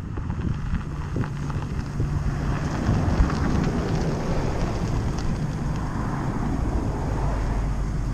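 A car engine running, with a steady low hum, and wind buffeting the microphone.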